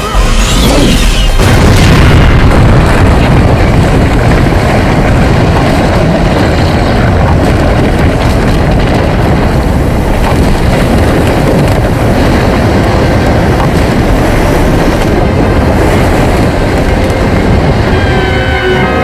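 Animated-film sound effect of a dam bursting and floodwater rushing through. It starts suddenly with a brief crash, then settles into a steady, heavy rumble of water.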